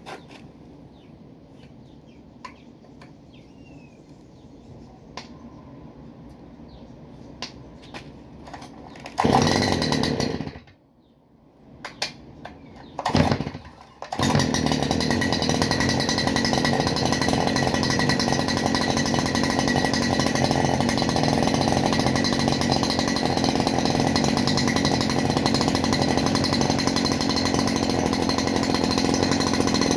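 Stihl FS 291 brushcutter's two-stroke engine on a cold start. About nine seconds in it fires for a moment and dies, sputters twice more, then catches and runs steadily from about halfway through.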